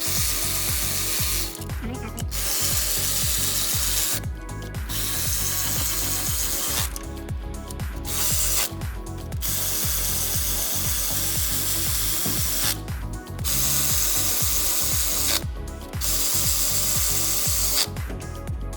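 Power tool running in repeated bursts of one to three seconds with short pauses between, over background music with a steady beat.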